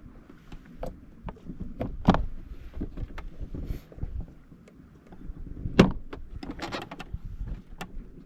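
Jet ski running out on the water, an uneven low rumble with wind on the microphone, broken by sharp knocks; the loudest come about two seconds and about six seconds in.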